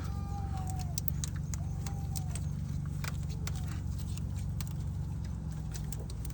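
2008 Nissan Maxima's V6 engine running at a steady idle, with irregular light clicks over it; the low hum shifts slightly about five seconds in.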